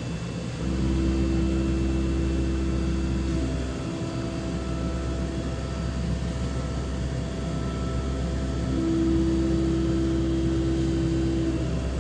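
Five-axis CNC machining centre (DMG Mori DVF 5000) running a milling operation: a steady hum with a humming tone from the spindle and cut that fades for a while and returns strongly near the end.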